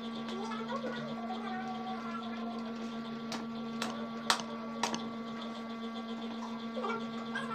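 Mukbang eating sounds of hand-torn lechon (roast pig) meat: sharp wet clicks of chewing and lip-smacking, four of them between about three and five seconds in, over a steady electrical hum.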